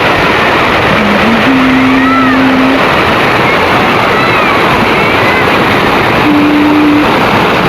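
Heavy rain pouring steadily in a dense, even hiss, with a few faint held tones now and then.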